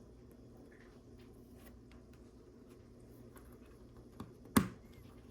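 Small plastic Lego pieces being handled, making faint scattered clicks, with a small click about four seconds in and a loud sharp click just after it.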